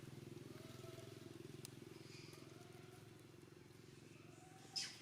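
Faint steady low mechanical hum with a fine even pulse, with a brief high-pitched squeak near the end.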